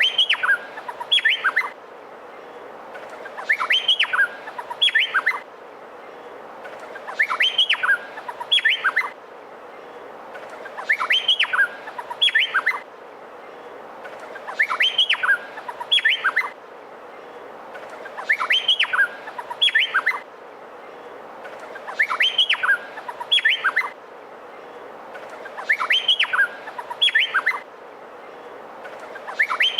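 Male Meliphaga honeyeater (cucak pantai) singing: a short phrase of sharp, quickly rising and falling whistled notes, repeated at even spacing about every four seconds, over a steady faint background hiss.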